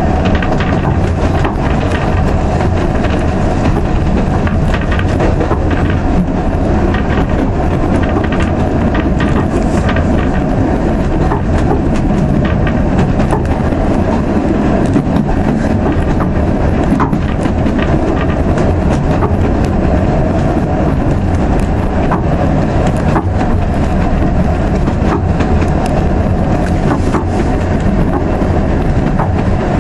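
Narrow-gauge steam train's passenger carriage running along the line, heard from inside: a loud, steady rumble of wheels on track with frequent short clicks and knocks.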